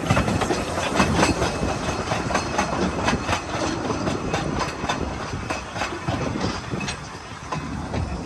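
Open carriages of a narrow-gauge steam train rolling past, wheels clicking over the rail joints in a quick irregular run. The clicks thin out and the rumble quietens after about five seconds as the train slows to a stop.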